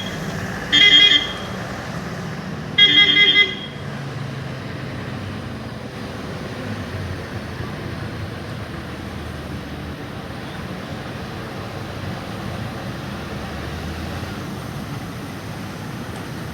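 A vehicle horn gives two short high-pitched blasts in the first few seconds, then heavy trucks' diesel engines run slowly and steadily with general road traffic noise.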